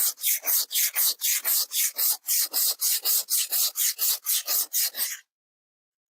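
80-grit emery cloth rubbed quickly back and forth over rusty steel, about four strokes a second, breaking the rust off. The strokes stop about five seconds in.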